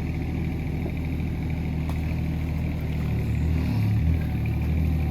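Hitachi ZX18 mini excavator's diesel engine running steadily, its note shifting briefly a little under four seconds in.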